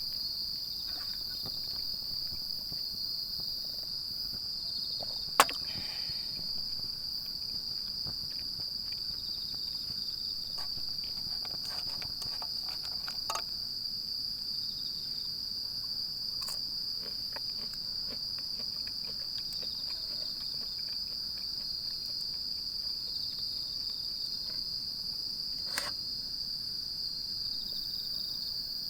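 Insects chirring in one steady, unbroken high band, with a few sharp snaps: the loudest about five seconds in, fainter ones near the middle and near the end.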